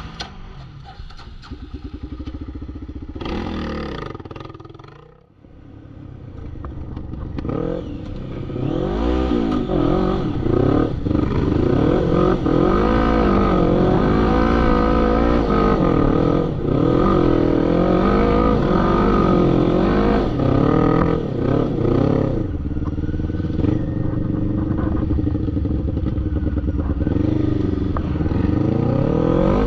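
Off-road vehicle engine revving hard, its pitch rising and falling again and again as the throttle is worked. It falls away briefly about five seconds in, then runs loud with continuous throttle changes.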